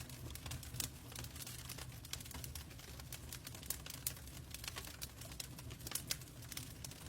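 Wood fire crackling in a fireplace: irregular sharp pops and snaps from burning logs over a steady low rumble of the flames.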